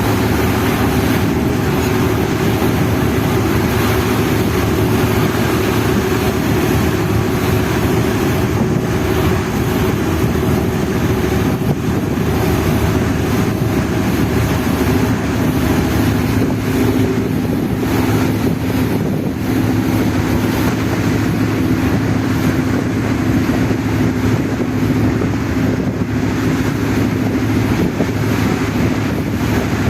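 Passenger ferry under way: its engine drones steadily with a low, even hum, under wind noise on the microphone.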